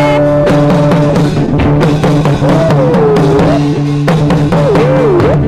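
Live gospel band music: a drum kit beating over held chords, with a melodic line that slides up and down in pitch.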